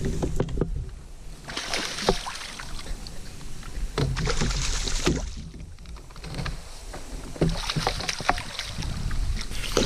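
Water splashing and sloshing around a fishing kayak in recurring surges every couple of seconds, with wind rumbling on the microphone and small knocks mixed in.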